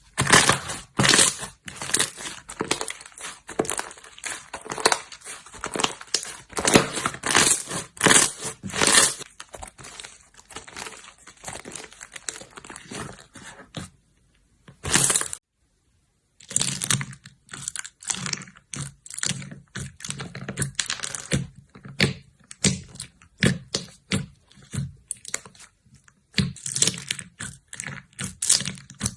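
Slime being squished and stretched by hand, giving rapid crackling and popping clicks in dense runs, with a brief silent break about halfway through.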